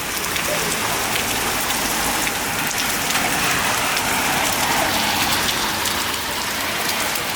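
Hailstones falling steadily, a dense patter of countless small impacts on hard surfaces.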